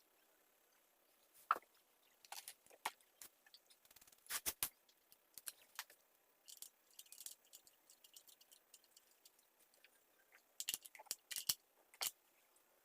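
Irregular small clicks, taps and short scrapes of hands handling a mini chainsaw while cleaning it, clustered about four seconds in and again near the end.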